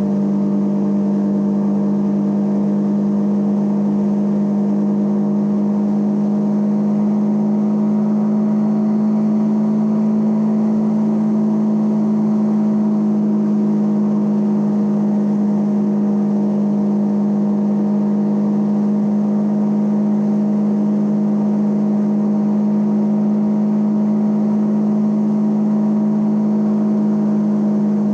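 Triumph Trident 660's inline three-cylinder engine running at a steady engine speed. Its note rises slightly about eight seconds in and then holds.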